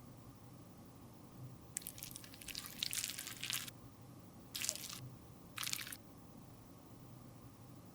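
Close-up crackling, squishing handling sounds of a cosmetic product being worked, in three bursts: a longer one about two seconds in, then two short ones around five and six seconds.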